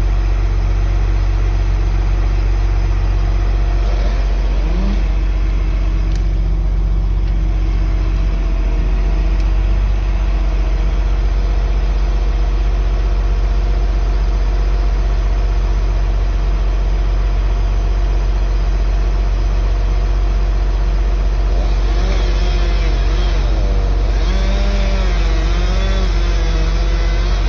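An engine running steadily at a constant speed, with a few faint wavering tones near the end.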